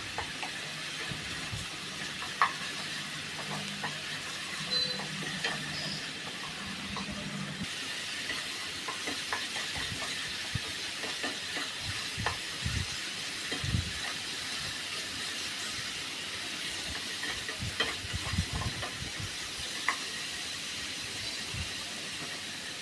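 Onion paste frying in hot oil in a pan, a steady sizzle, with a spatula scraping and knocking against the pan now and then as it is stirred.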